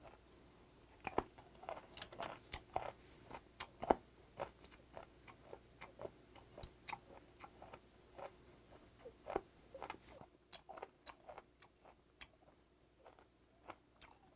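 A person chewing a mouthful of fermented skate (hongeo), giving irregular mouth clicks. They come thickly for the first ten seconds or so and thin out near the end.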